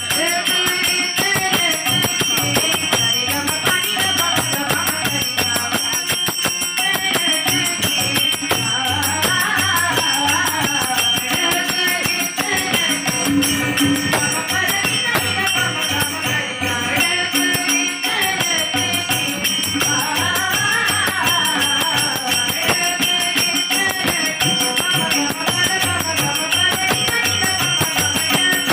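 A devotional bhajan sung by young girls' voices over steady, rhythmic rattling hand percussion.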